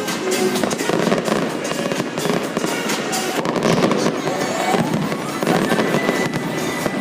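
Fireworks display: many overlapping bangs and crackles in quick succession, with music playing along.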